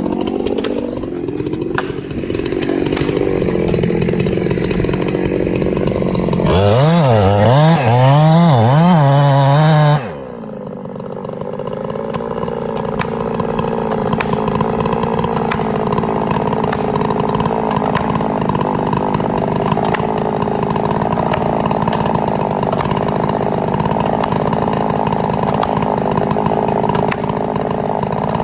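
Chainsaw running, revved hard for a few seconds with its pitch wavering up and down, then dropping off suddenly about ten seconds in and running on steadily.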